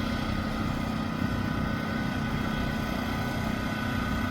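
An engine running steadily at an even speed: a constant low hum with a couple of steady higher tones over it.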